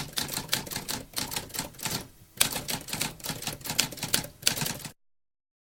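Typewriter keys clacking in a quick, uneven run of strikes, with a brief pause about two seconds in. The typing stops abruptly about five seconds in.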